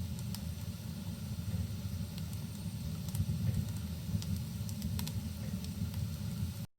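Crackling wood fire in a fireplace, sharp pops and snaps scattered over a steady low rumble, blended with rain. The sound cuts out for a split second near the end.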